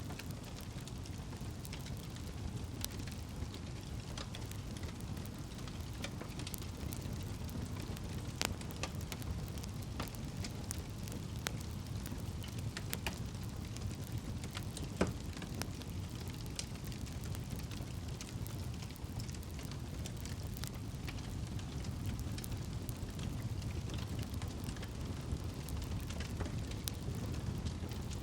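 Campfire burning with a steady low roar and frequent sharp crackles and pops of the wood, one louder pop about halfway through.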